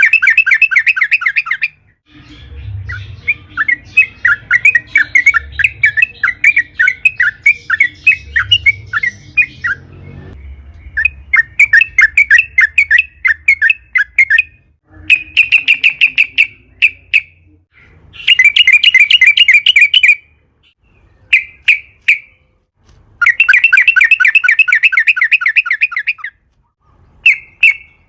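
Yellow-vented bulbul singing in long, rapid chattering rolls, several bouts of one to three seconds broken by short pauses, with a few short single phrases near the end.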